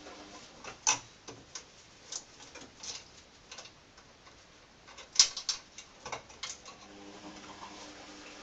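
Irregular clicks and clinks of tools and small parts being handled during work on a 49cc minibike's clutch, with a sharp knock about a second in and a quick cluster of clicks about five seconds in.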